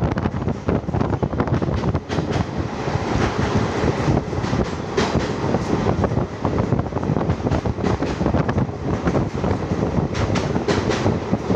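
Passenger train running along the track, heard from on board: a steady rumble with the wheels clattering irregularly over the rail joints.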